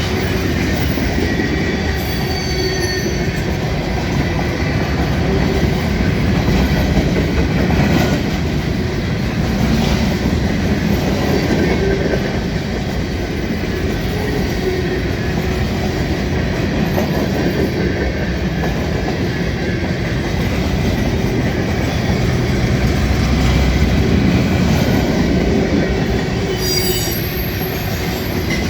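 Freight train rolling past at close range: a steady, loud rumble of wheels on rail, with brief high-pitched wheel squeals near the start and again near the end.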